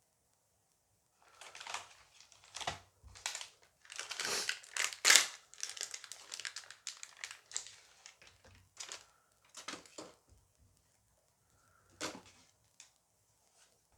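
Foil booster pack being torn open and crinkled by hand: a run of crackly rustles and tearing sounds that starts about a second in, is loudest around the middle and thins out toward the end.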